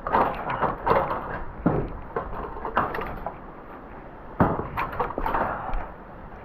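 Knocks and clunks of gear being handled and taken off the side of a truck trailer, a quick run of them at first, then a louder clunk past the middle and a few lighter ones.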